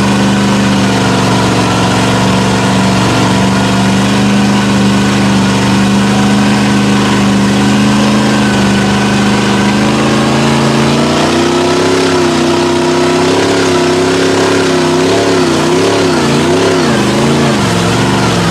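Mud truck engine running steadily, then revved higher about eleven seconds in, its pitch swinging up and down several times before dropping back near the end.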